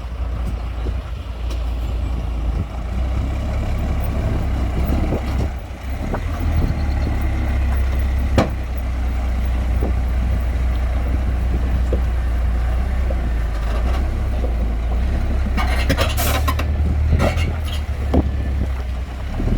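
Heavy diesel construction machinery (dump truck and bulldozer) running with a steady low rumble, with a few sharp knocks and a short burst of hissing about three quarters of the way through.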